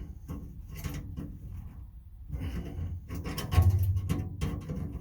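Irregular knocks, scrapes and rattles of a tool box being handled and worked on, busiest and loudest in the second half.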